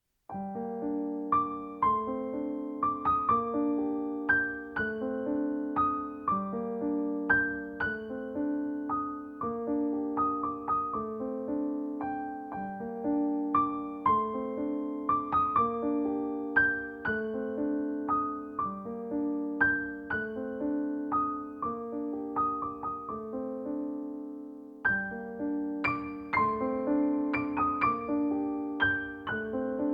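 Soft piano music with a gentle, repeating melody over a steady accompaniment. It starts right at the beginning and thins out briefly about two thirds of the way through before the full pattern returns.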